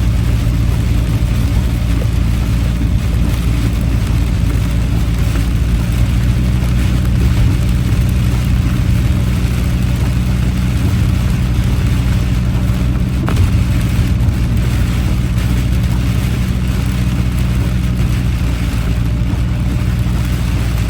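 Steady engine and road noise heard inside a moving car's cabin: a low drone with an even hiss above it.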